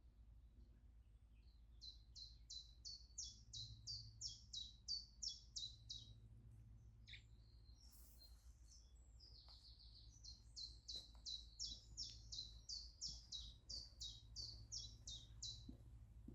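A songbird singing two long phrases, each a fast run of high, downward-slurred notes repeated about four times a second. The first phrase starts about two seconds in, the second about ten seconds in.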